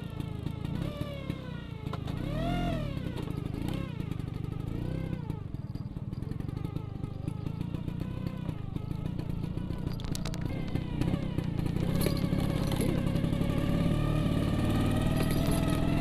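Vespa scooter engine running on the move, its revs rising and falling several times in the first few seconds, then running more steadily.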